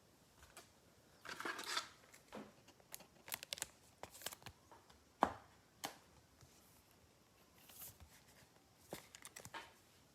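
Foil wrapper of a trading card pack being torn and crinkled while cards are handled, with scattered rustles and sharp clicks of cardboard.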